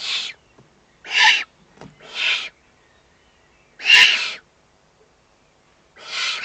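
Eurasian eagle-owl chicks giving rasping, hissing begging calls: five calls of about half a second each, at uneven gaps of one to two seconds, while being fed at the nest.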